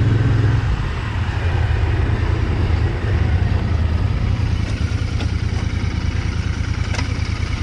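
Royal Enfield Interceptor 650's parallel-twin engine running on the road. The throttle eases off about half a second in as the bike slows, then the engine runs on steadily at low speed.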